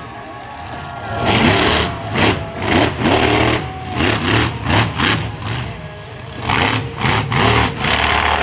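Monster truck engine revving in a string of sharp throttle blips, about ten in all, each rising in pitch, over a steady low rumble.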